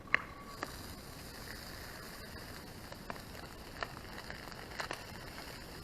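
Small wood fire crackling, with a few sharp snaps over a steady hiss.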